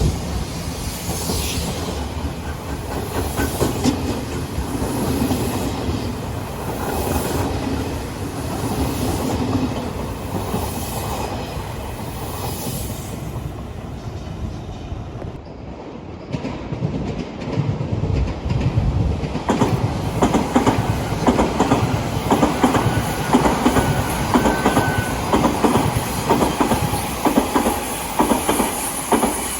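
Odakyu Line electric commuter trains running past, with the clickety-clack of wheels over rail joints. The sound eases off about halfway through, then builds again with dense rapid clicking.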